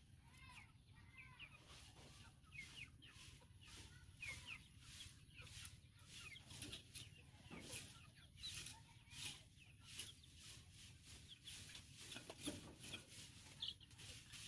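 White-breasted waterhen (dahuk) chicks peeping: many short, high chirps, some sliding quickly in pitch, with frequent small clicks between them.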